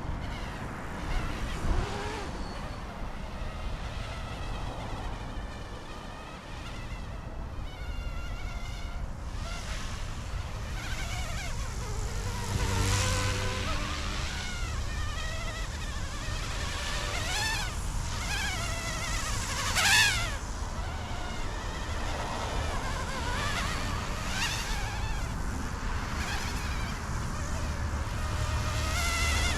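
E150 micro RC helicopter's direct-drive brushless motors and rotors buzzing in flight, the whine rising and falling in pitch again and again as the throttle changes, with a brief sharp surge about twenty seconds in.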